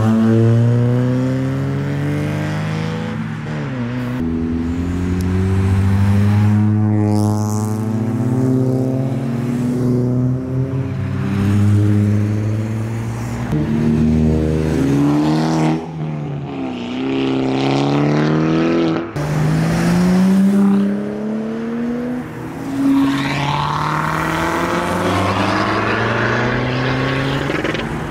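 Modified tuner car engines accelerating away one after another, each rising in pitch as it revs and dropping back at the gear changes.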